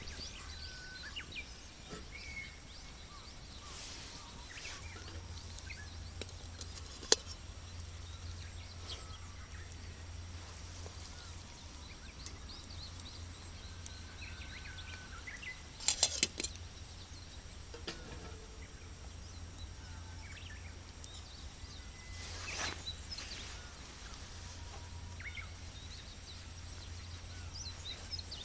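Wood fire burning in a Snow Peak fire stand, crackling, with a sharp pop about seven seconds in and a quick run of loud pops a little past the middle, over a steady low hum.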